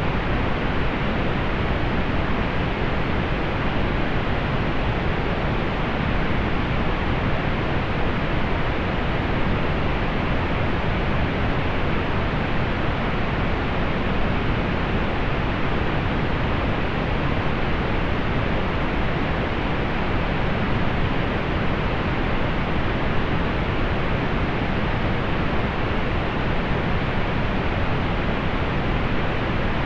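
Steady pink noise: an even, unchanging hiss with more weight in the lows, softened in the highs.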